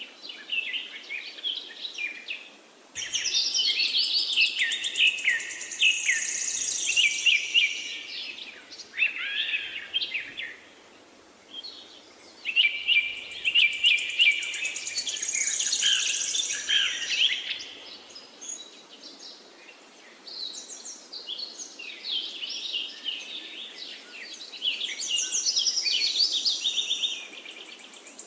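Birds chirping and trilling, with rapid high notes in phrases of a few seconds separated by short lulls.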